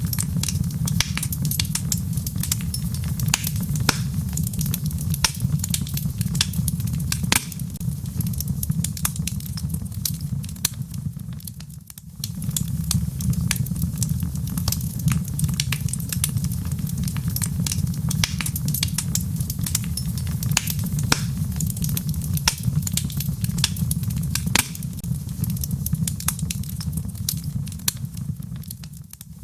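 Wood logs burning in a fireplace: a steady low rumble of flame with frequent sharp crackles and pops. The sound dips briefly about twelve seconds in and again near the end.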